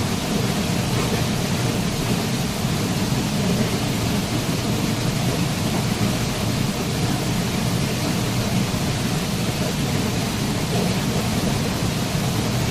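Waterfall running: a steady, unbroken rush of falling water with a deep low rumble.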